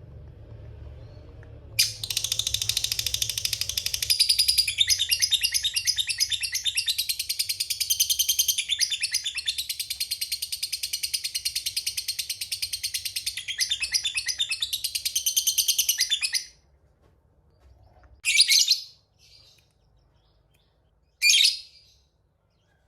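Lovebird singing a long 'ngekek' chatter: a rapid, unbroken run of sharp high notes lasting about fifteen seconds, followed by two short single calls.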